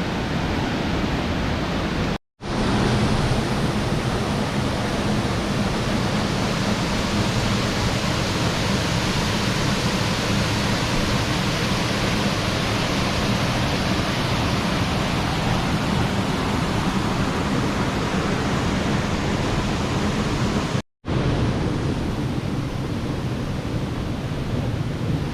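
Waterfall: a steady, loud rush of falling water, broken twice by a sudden brief silence where the recording cuts.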